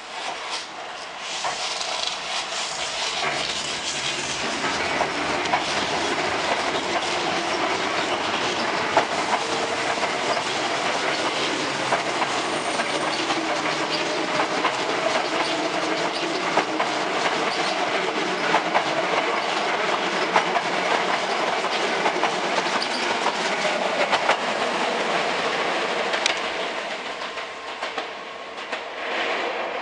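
Resistance-controlled Hankyu 6000 series electric train pulling out and accelerating past the platform: wheels clacking over rail joints under a motor whine that rises slowly in pitch. It fades near the end as the last cars draw away.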